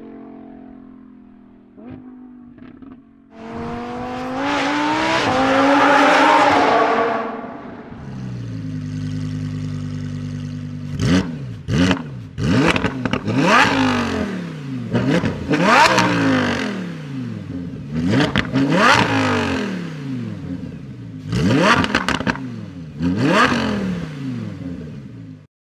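Novitec-tuned Lamborghini Huracán EVO's V10 engine: first its note falls and fades as the car pulls away, then it accelerates hard with a long rising pitch. After that it idles steadily and is revved about ten times in sharp blips, each rising and falling quickly.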